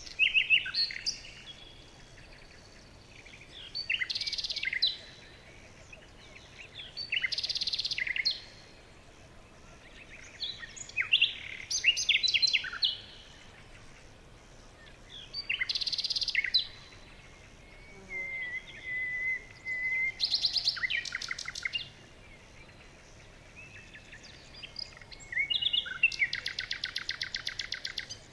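Songbirds singing in a forest, with short separate song phrases every few seconds over a faint background hiss. About eighteen seconds in there is a steady, level trill, and near the end a fast, rapid trill.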